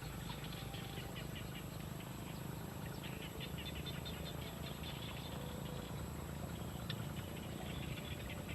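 Nestling birds in the nest chirping in quick runs of short, high cheeps, over a steady low hum.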